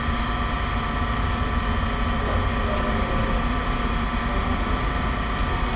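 An engine running steadily, a constant low rumble with an even hum over it.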